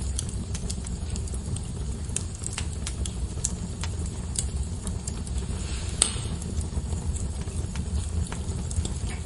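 Wood fire burning in a fireplace: a steady low rumble of the flames with scattered crackles and snaps, and one louder pop with a brief hiss about six seconds in.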